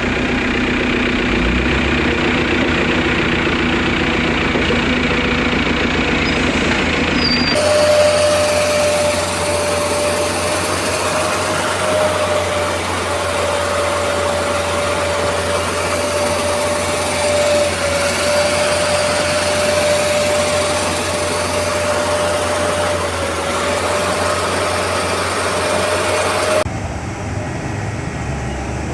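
Engines of a mini truck mixer and mini concrete pump running steadily, heard in three spliced clips. The first is a low engine hum. About a quarter of the way in it cuts to machine noise with a steady mid-pitched whine on top. Near the end it cuts to a quieter hum.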